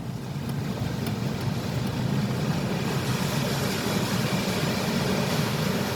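Steady low rumble of an idling car and the car wash machinery around it, heard from inside the car, growing a little louder over the first two seconds.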